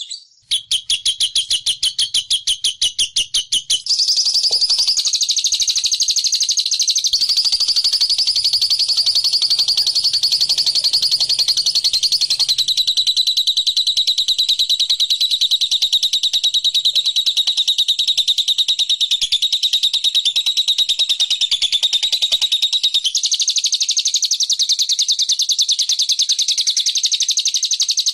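Lovebird 'ngekek': a long, unbroken trill of high, rapid chirps. It opens as evenly spaced chirps, runs into a continuous fast rattle about four seconds in, and shifts pitch slightly a few times.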